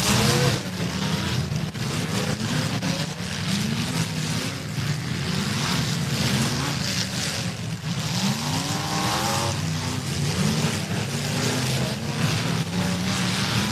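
Several demolition derby cars' engines revving hard at once, their pitch repeatedly climbing and dropping as the cars shove against each other, with occasional sharp knocks.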